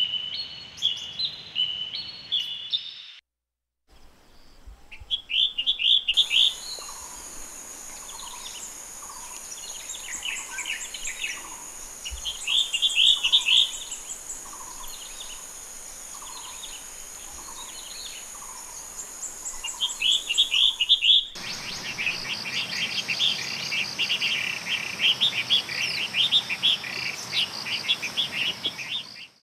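Collared finchbills chirping in quick bursts of bright notes, a few seconds apart, thickening into denser chattering near the end. A softer repeated lower note and a steady high hiss run under the middle part. The first three seconds hold a different bird's repeating call, which stops abruptly.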